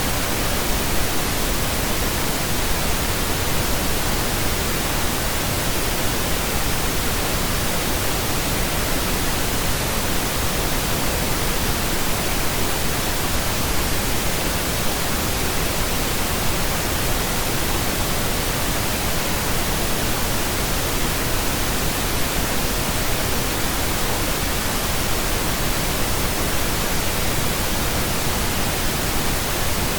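Steady pink noise: an even, unbroken hiss spread across all pitches, with no change in level.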